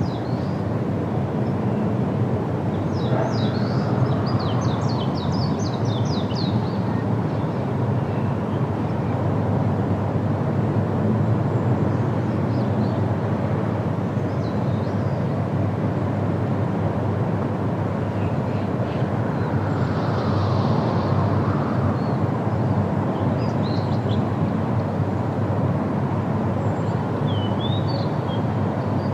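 Steady wind through trees, a low rushing noise, with small birds chirping now and then: a quick run of chirps a few seconds in, more around the middle and again near the end.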